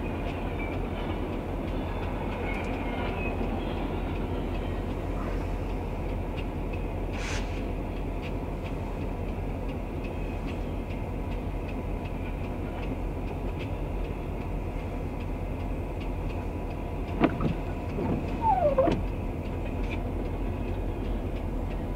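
Double-stack container freight train rolling past, a steady rumble of wheels on rail. Late on there is a sharp clank, then a brief squeal that falls in pitch.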